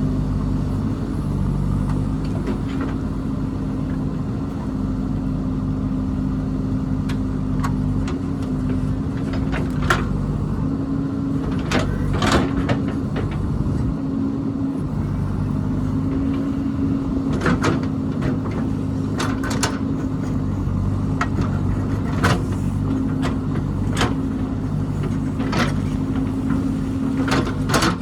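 Diesel engine of heavy construction machinery running at a steady speed, with sharp clanks and knocks every few seconds, coming more often near the end.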